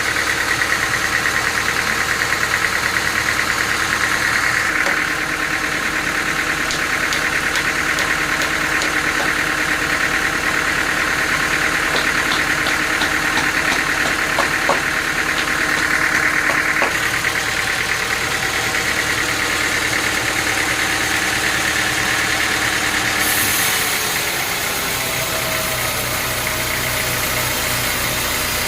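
Sawmill machinery running steadily: an engine drone under a high, even whine. The sound changes abruptly about five seconds in, again past the middle and once more near the end, with a few light ticks in between.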